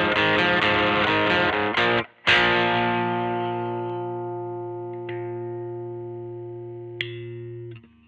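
Squier Vintage Modified Jaguar electric guitar played through distortion: quick repeated chords for about two seconds, then one chord left to ring out and slowly fade before it is damped near the end.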